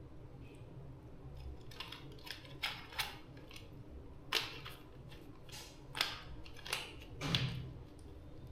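A series of sharp, irregular clicks and snips from hand tool work on a small device, about six in all over several seconds, the last one slightly drawn out.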